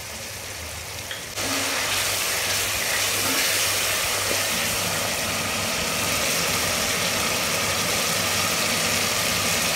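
Tomatoes, green chillies and onion masala sizzling as they fry in a pot. The sizzle jumps louder about a second and a half in and then holds steady, over a low steady hum.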